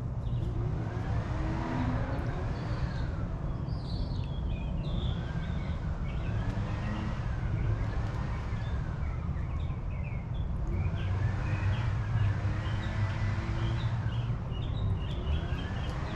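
Backyard ambience: small birds chirping in short high calls over a steady low rumble of traffic, with a faint tone that rises and falls over and over.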